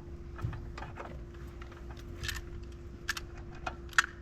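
Scattered light metallic clicks and clinks of tools and hardware being handled, the sharpest about four seconds in, over a steady hum.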